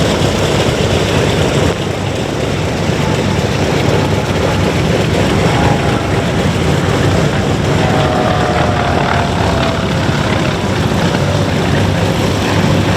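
Radial piston engines of WWII Grumman warbird fighters running loud and steady during a flying display pass, with a faint tone that falls slightly in pitch midway.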